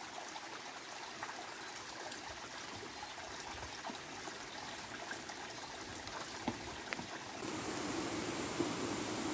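Steady rain falling through rainforest foliage, a continuous hiss with scattered drips, growing louder about seven seconds in.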